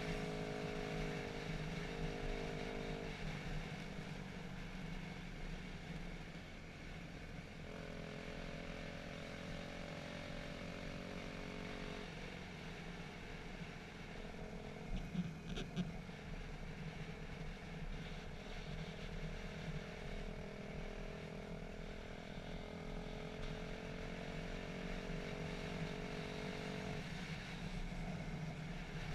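Dirt bike engine running steadily, its pitch stepping up or down several times, with a few short knocks about halfway through.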